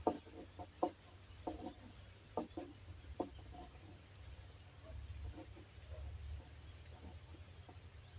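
Birds calling: a quick run of short, low, sharp calls in the first three seconds, then faint, short, high chirps spaced through the rest, over a low steady rumble.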